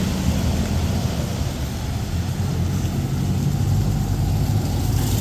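A motor vehicle's engine running steadily at low revs, a low rumble that eases a little in the middle and picks up again near the end.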